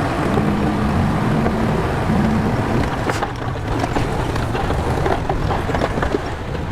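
Shantui bulldozer's diesel engine running steadily under load, with scattered short clanks from the machine.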